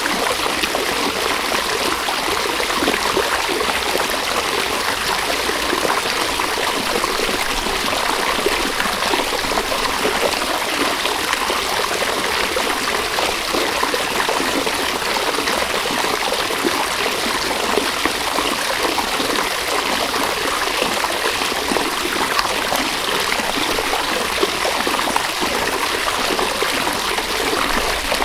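River water running steadily, an even, unbroken wash of water noise that sits mostly in the middle and high range, with little deep rumble.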